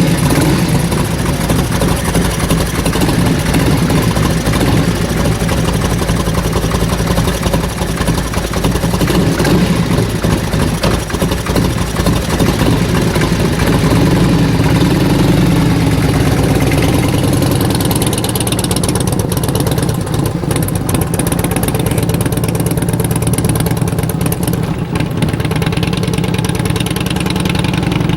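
Harley-Davidson Electra Glide's V-twin engine running steadily at low revs, its pitch rising and falling a little.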